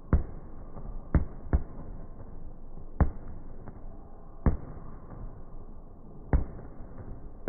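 Aerial fireworks exploding: about six sharp bangs at uneven intervals, a second or so apart, with a few fainter pops between them over a steady background hiss.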